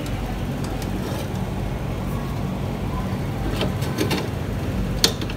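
Steady low machine hum, with a few sharp clicks near the end.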